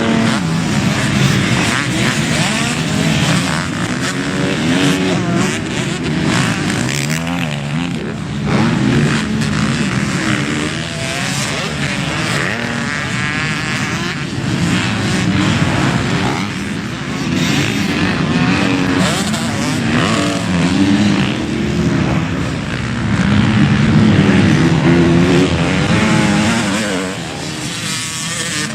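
Motocross bike engines revving up and down through the gears, pitch rising and falling again and again as they ride the track.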